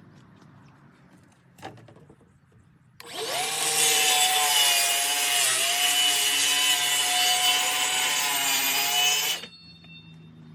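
Power saw cutting a wooden panel for about six seconds. Its motor whines up to speed about three seconds in, dips once under load and stops suddenly.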